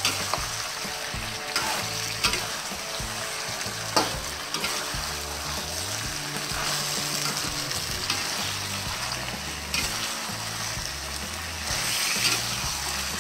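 Shrimp in sauce sizzling in a stainless steel wok while a spatula stirs them, with a sharp clink of the spatula against the pan every few seconds.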